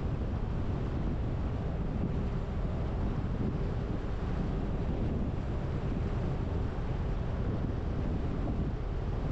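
Steady rumble of a car driving: road and wind noise, strongest in the low end and unchanging throughout.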